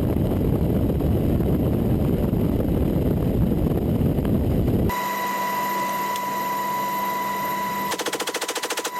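Heavy, fluttering rumble of helicopter rotor and wind noise for about five seconds, then a sudden cut to a steady mechanical hum with a high whine. Near the end a machine gun fires a rapid burst of about fifteen shots a second, typical of a helicopter door gunner's M240.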